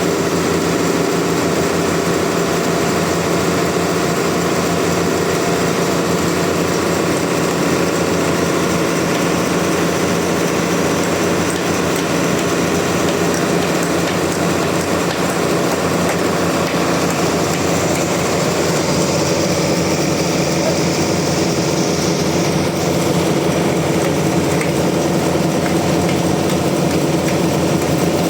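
Sawmill machinery running steadily: an engine-driven saw holding an even, unbroken drone.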